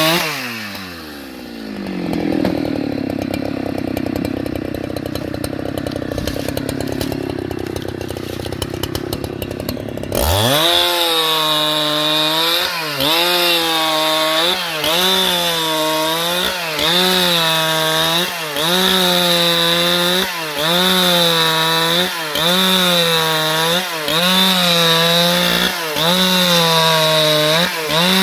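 Husqvarna 395XP two-stroke chainsaw sawing wood. The engine drops sharply in pitch at the start and runs lower for about ten seconds, then picks back up to high revs, its pitch dipping and recovering about once a second.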